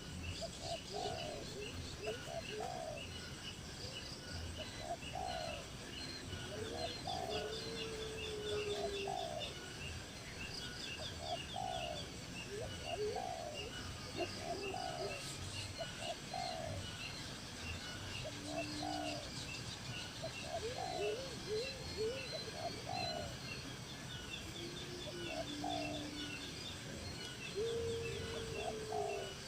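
Several birds calling: short low calls repeated about once a second, higher rapid trills, and now and then a longer held note.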